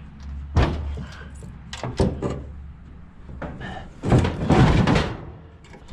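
A steel scrap piece being shifted into place on a load: two sharp knocks in the first two seconds, then a louder scraping rattle lasting about a second near the end.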